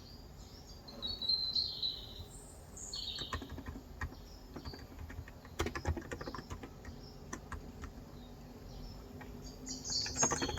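Typing on a Cox Endeavor tenkeyless keyboard with 35 g electrocapacitive (contactless) switches, with scattered keystrokes clustered in the middle. Birds chirp in the background near the start and again near the end.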